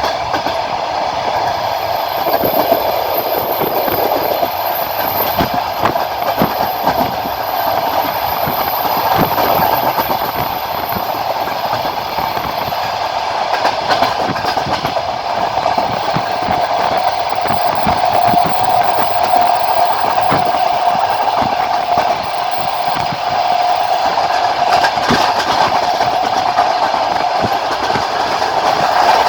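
Passenger train running at speed, heard from a carriage window: the wheels clatter and knock over rail joints on top of a steady running rumble and rail hum.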